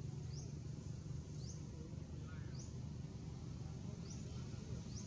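A bird repeating a short, high, rising chirp about once a second, over a steady low rumble.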